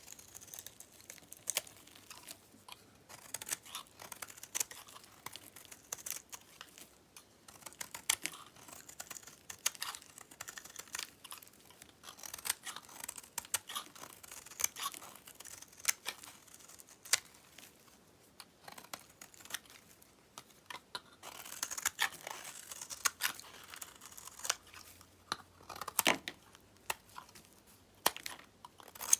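Dried, dyed soap being cut and crumbled: a run of irregular crisp crackles, snaps and small clicks.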